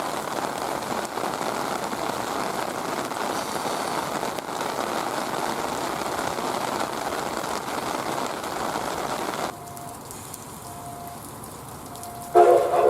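Heavy rain, a dense steady hiss, that drops away abruptly about nine and a half seconds in. Near the end a steam locomotive's whistle starts to blow loudly.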